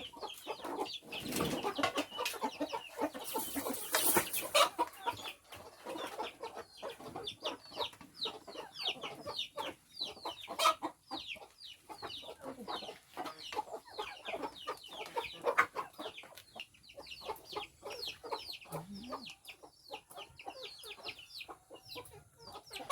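A flock of chickens calling while they feed: many short, overlapping, high calls that fall in pitch, mixed with clucking. There is a louder stretch of rustling noise in the first few seconds and a single sharp knock about halfway through.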